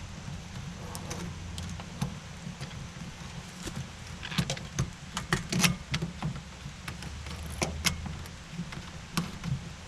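Tools and small metal parts being handled, a scatter of clicks, knocks and light clatter that is busiest around the middle, over a steady low rumble.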